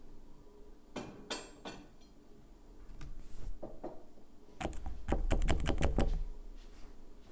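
Small hard objects handled on a tabletop during a manicure: a few sharp clicks about a second in, then a quick run of clicks and knocks with low thuds from about the middle, the loudest part.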